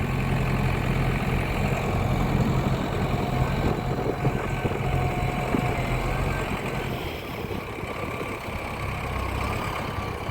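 Engine of the vehicle delivering hay bales, running steadily; its hum drops and gets quieter about seven seconds in.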